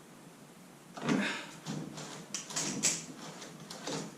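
A screwdriver and small metal parts scraping and clicking, starting about a second in, as the screw holding the kayak rudder pin is tightened down.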